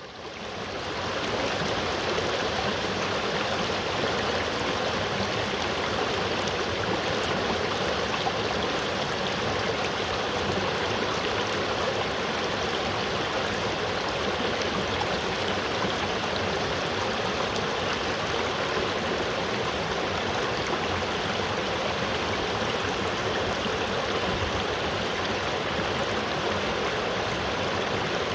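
River water flowing steadily: a continuous, even rushing and burbling that fades in over the first second or two.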